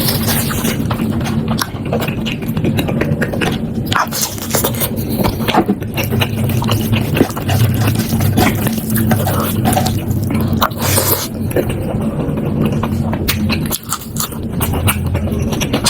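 Close-miked eating sounds: wet chewing, smacking and slurping of food, a dense run of quick clicks and crackles with a low steady hum underneath.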